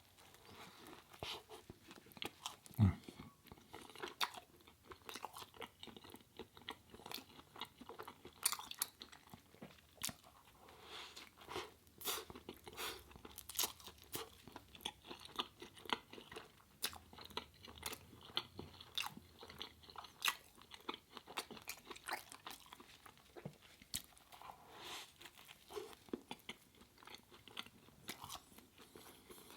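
Close-up eating sounds: crunchy bites and steady chewing, with irregular crackles and smacks, and one louder thump about three seconds in.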